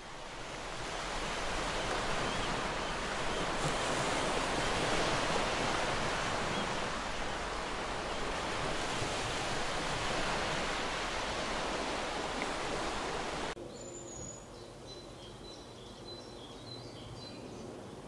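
Sea surf breaking and washing over a rocky shore, a dense steady rush that swells in over the first two seconds. It cuts off suddenly about three-quarters of the way through, giving way to quieter outdoor air with faint high bird chirps.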